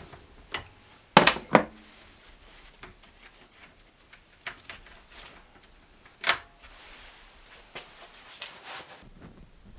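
Hand tools and metal parts being handled during an ATV strip-down: scattered clinks and knocks, with two sharp knocks close together just over a second in and another about six seconds in.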